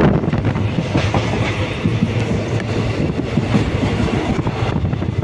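Passenger train running at speed, heard from inside the carriage: a steady rumble with the wheels knocking over the rail joints.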